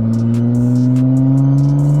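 2020 Acura TLX A-Spec's 3.5-litre V6 under acceleration through a custom catback exhaust with the mufflers and stock resonators deleted for two Vibrant Ultra Quiet resonators; the engine note rises steadily.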